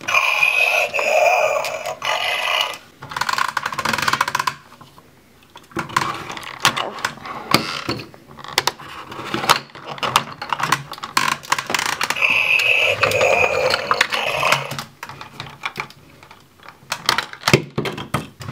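Plastic clicking and clattering from a Screaming Banshee toy truck's moving parts as its scoop and jaw are worked by hand. Twice, near the start and about two-thirds through, a louder, denser noise with a steady high tone in it lasts around three seconds.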